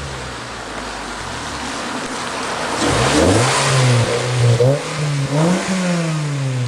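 2005 Acura TSX's K24A2 2.4-litre inline-four, breathing through Comptech headers, a high-flow cat and a Fujitsubo exhaust, accelerating hard. It runs steadily at first. About three seconds in the revs climb sharply and loudly, the pitch dips and climbs again twice, then falls away near the end as the throttle comes off.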